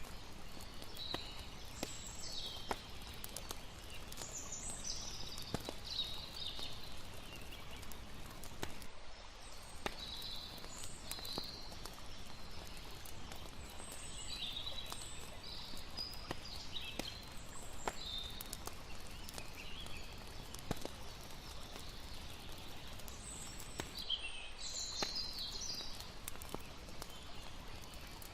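Layered night-time campfire ambience: a wood fire crackling with many sharp little pops, irregular short chirping calls of night creatures above it, and a steady low wash of lapping water underneath.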